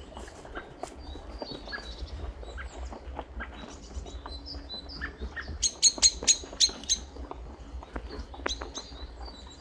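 Birds chirping: a scatter of short, high chirps throughout, with a run of about six loud, sharp chirps in the middle.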